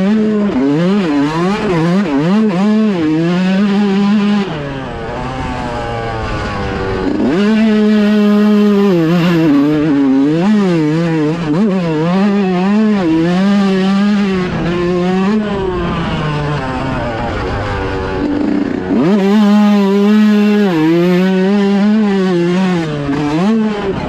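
A 125 two-stroke motocross bike ridden hard on the track, its engine revving up and dropping back again and again through gear changes and throttle blips. It eases off twice, about five seconds in and again around sixteen seconds, before being opened up again.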